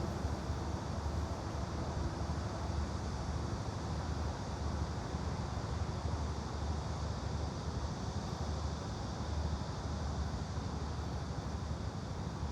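Steady background noise, a low even rumble with a hiss above it, with no distinct events.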